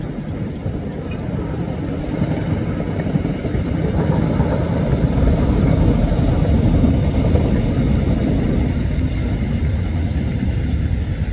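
Locomotive-hauled passenger train passing: a steady rumble of the locomotive and of wheels running on the rails, growing louder to a peak about two-thirds of the way through.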